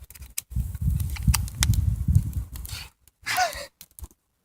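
Handling noise as a knife and ferro rod are put away: scattered clicks and knocks over a low rumbling rustle. A short breathy sound with a falling pitch comes about three and a half seconds in.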